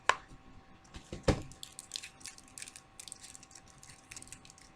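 Makeup products being handled on a table: two sharp plastic clicks or knocks, one right at the start and one about a second in, then small faint ticks and rustles.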